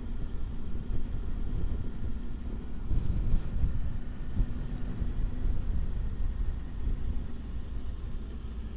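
Motorcycle under way: the Triumph Tiger 800's three-cylinder engine running as a low, steady rumble, mixed with wind noise on the microphone.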